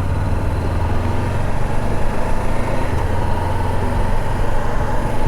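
2014 Honda CB500X's parallel-twin engine running steadily.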